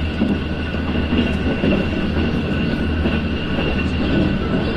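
Conventional passenger train coach running along the line, heard from inside the carriage: a steady low rumble of wheels on rail, with a faint steady high whine above it.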